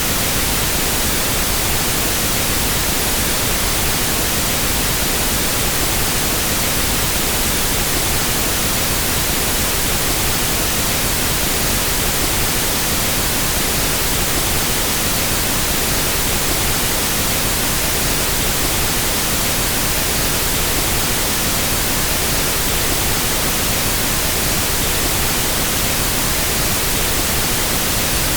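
Steady, unbroken hiss of a pink-noise test signal, used for equalizing sound systems, at a constant level with no change or events.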